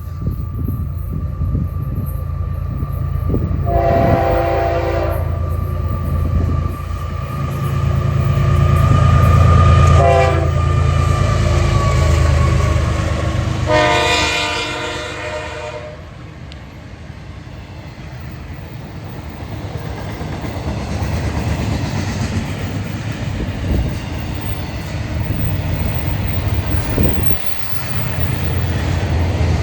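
Passing train's locomotive horn sounding three blasts (a long one, a short one, then a long one) over a heavy, steady locomotive engine rumble, followed by the steady rolling noise of the cars going by.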